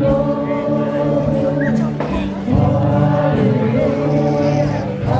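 A group of voices singing a hymn together in long held notes, with the chord changing about halfway through.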